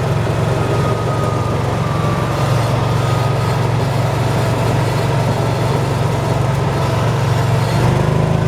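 Vehicle engine running steadily with a low, even drone; its note shifts slightly near the end.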